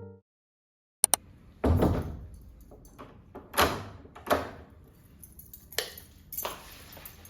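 Household handling sounds: two sharp clicks about a second in, then a series of separate thuds and rustles, like things being set down and moved about in a small room.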